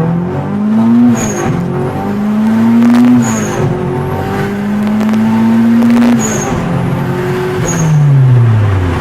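Turbocharged B20 VTEC engine in a Honda Civic accelerating hard through the gears: the revs climb, cut off at each shift with a short high chirp, and climb again three times, then fall away near the end.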